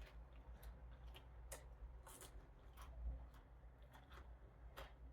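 Faint chewing of fried catfish: irregular soft mouth clicks and small crunches, over a steady low hum.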